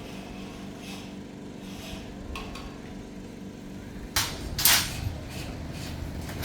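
Metal pieces clanking together in two sharp clatters about four seconds in, over a steady low hum.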